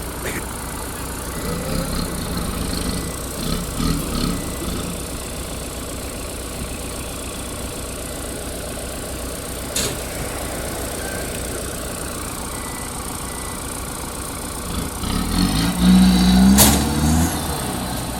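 Kubota M9540 tractor's diesel engine running steadily while levelling fill soil, with a few sharp knocks. The engine grows louder and its pitch shifts near the end as it works harder.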